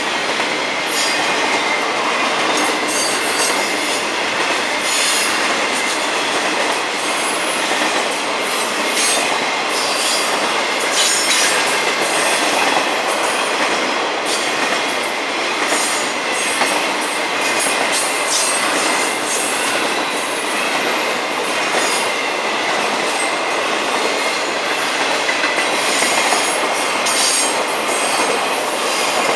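Steel wheels of a long FEC intermodal freight train's container and trailer flatcars rolling past: a steady rolling noise with irregular clicks from the wheels over the rail joints and a thin, steady high squeal.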